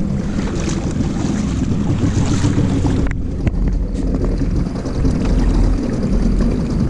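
2 hp Spirit two-stroke outboard motor running steadily under way, with wind noise on the microphone.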